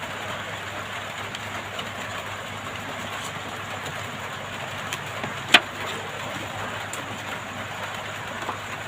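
Hot air rework station blowing a steady hiss at full airflow, heating the phone to soften the display's adhesive. One sharp click about five and a half seconds in.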